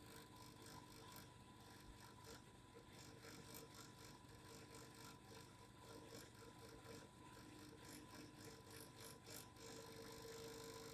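Faint, irregular mechanical clicking over a quiet, steady hum.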